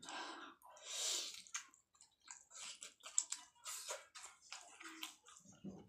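A person chewing a mouthful of cauliflower curry, in short irregular bursts of mouth sounds with brief pauses between them.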